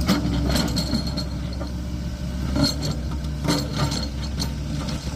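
Volvo 210E excavator's diesel engine running steadily, with a scatter of sharp clinks and knocks over it, several of them in the middle.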